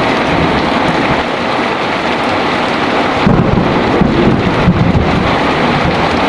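Heavy rain falling steadily, with thunder rumbling low beneath it and swelling about three seconds in.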